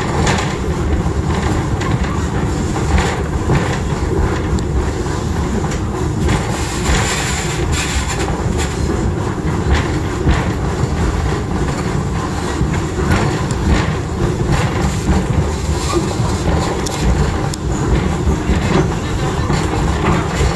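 Passenger train running, heard on board an open-sided coach: a steady rumble of wheels on the track with irregular clicks and clacks over the rail joints.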